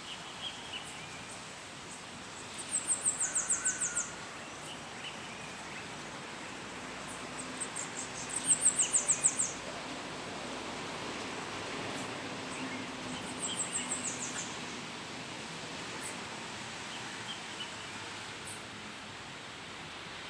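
A songbird repeating a fast, high-pitched trill of about ten notes, three times, with a few fainter chirps from other birds over a steady outdoor background hiss.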